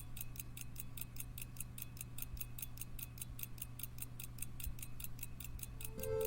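Pocket watch ticking steadily at about five ticks a second, over a faint low hum. Music comes in right at the end.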